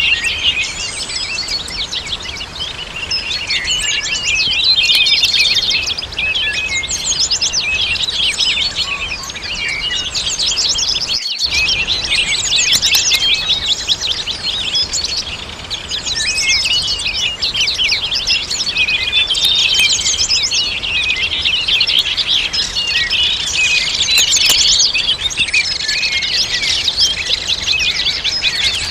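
A dense chorus of many birds chirping and twittering without a break, quick overlapping high chirps and trills, the sound cutting out for an instant about eleven seconds in.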